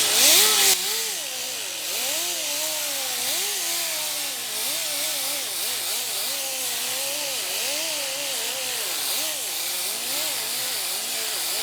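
A grinder with a 40-grit abrasive disc grinds a repaired sheet-metal fender. The first moment is a loud, hissy burst. After that the motor's pitch wavers up and down as the disc bears on the metal, over a steady gritty hiss.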